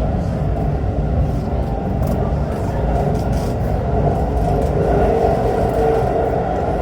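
Hanshin Railway electric train running between stations, heard inside the passenger car: a steady wheel-and-track rumble with a faint motor hum that grows slightly stronger past the middle.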